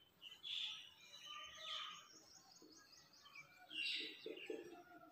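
Faint bird chirping: several short high calls, with a quick trill in the middle.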